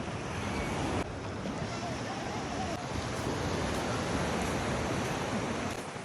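Steady rush of ocean surf with wind buffeting the microphone, and faint voices in the background.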